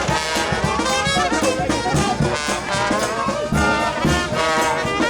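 New Orleans brass band playing second line music, with trumpets and trombones over a steady beat.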